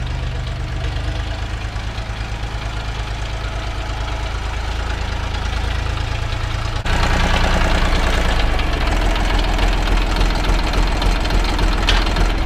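Mini-tractor diesel engine running steadily, its valves freshly adjusted. About seven seconds in it becomes suddenly louder and sharper, with a harder knocking edge, and the low note shifts a second or so later.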